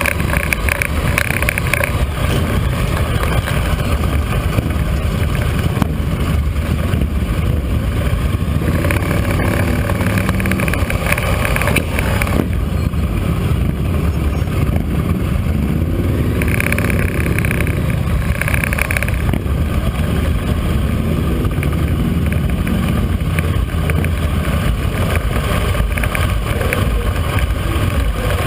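Motorcycle engine running steadily on the move, with rushing noise from the ride. Faint rises and falls in engine pitch come and go.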